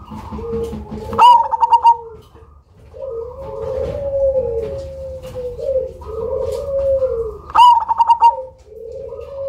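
Black cemani zebra dove (perkutut) singing: repeated cooing phrases, each opening with a quick run of sharp staccato notes, loudest about a second in and again near the end.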